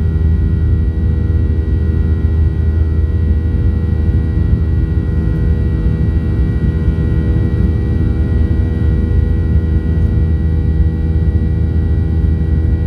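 Cabin noise aboard a Boeing 737-900ER: its CFM56-7B turbofan engines running with a steady drone, a heavy low rumble under several steady engine tones, unchanging throughout.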